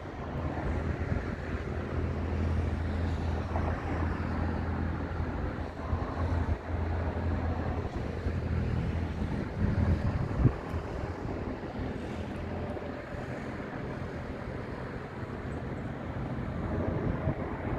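Boeing 737-800 jet engines heard at a distance, a steady low rumble under a broad roar that grows louder near the end.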